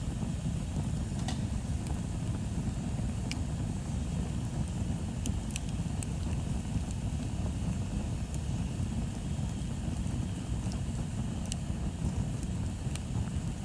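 Bonfire burning: a steady low rumble with scattered sharp crackles and pops from the burning wood, about ten in all.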